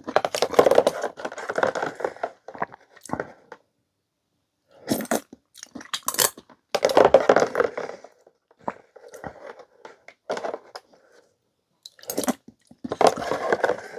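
A person eating: chewing and mouth sounds in bursts of a few seconds, separated by short quiet pauses.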